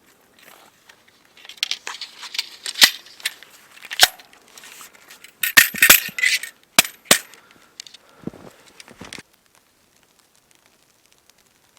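A run of sharp clicks, knocks and clinks from small hard objects being handled, several of them loud, lasting about eight seconds.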